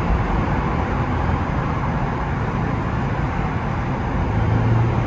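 Steady engine and road noise from a muffler-deleted Infiniti Q50 on the move. A low steady exhaust drone comes in near the end.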